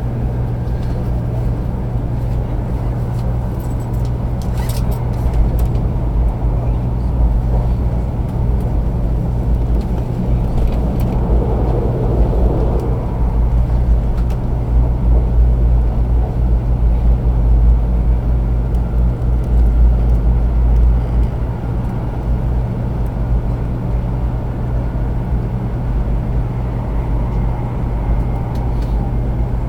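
Cabin noise of a 500 series Shinkansen running at speed: a steady low rumble that grows a little louder for about fifteen seconds in the middle, then eases back.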